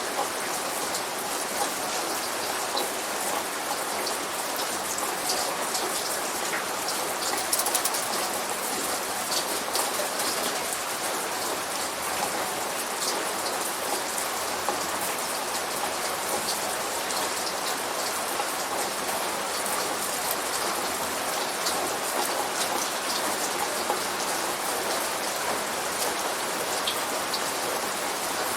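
Steady light rain falling, a constant hiss dotted with many small drop ticks; no thunder.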